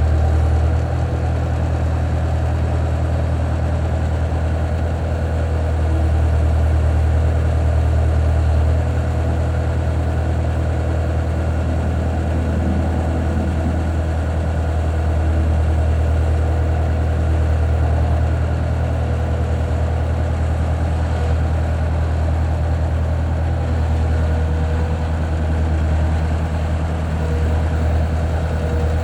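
Bobcat 873 skid steer loader's diesel engine running steadily at idle, with small rises and falls in level.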